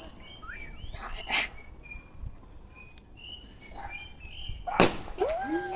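A cork pops from a bottle of sparkling Fragolino wine near the end, a single sharp bang, and right after it a dog starts howling with a rising then held tone. Birds chirp faintly in the background.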